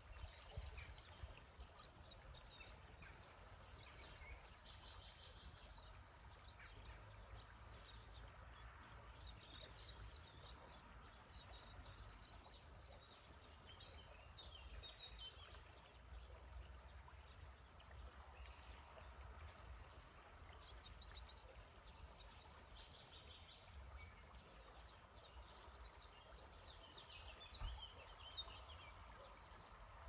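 Faint birdsong: one bird repeats the same short, high song phrase about every eight seconds, with scattered small chirps between, over a low steady rumble.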